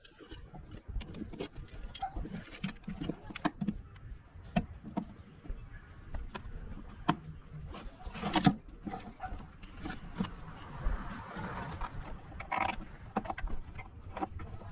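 Irregular clicks and knocks, a louder knock about halfway through, with a short hiss after it.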